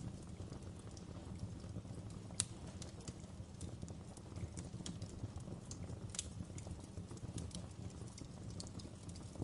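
Wood fire crackling in a fireplace: irregular sharp pops and snaps over a steady low rumble of burning, with the loudest pop about two and a half seconds in.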